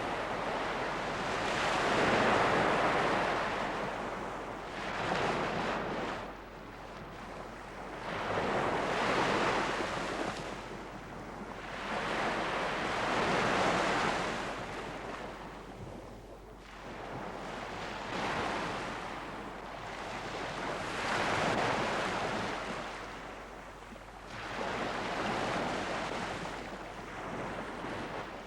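Sea waves washing onto a beach, the surf swelling and falling back about seven times, one surge every three to four seconds.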